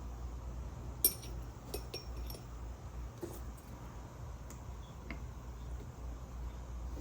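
A few light clinks and taps of glass and metal soldering tools being handled on the work surface, the sharpest about a second in, over a steady low hum.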